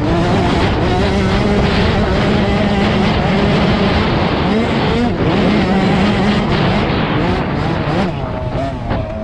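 Motocross bike engine under racing throttle, heard from on board, its pitch rising and falling as the rider opens and closes the throttle and shifts gear, with wind rushing over the microphone. The engine eases off briefly near the end.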